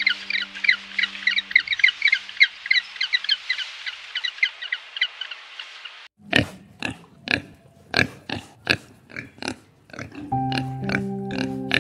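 A penguin colony chattering with many short, high, rapid calls for about six seconds, then piglets grunting and squealing in a quick series of sharp calls. Background music joins near the end.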